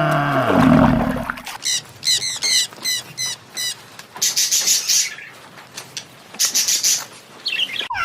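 Small animal's high-pitched calls: a quick series of about eight short, falling chirps, then two raspy, hissing high bursts. These follow a deep, drawn-out animal call with several tones that ends about a second and a half in.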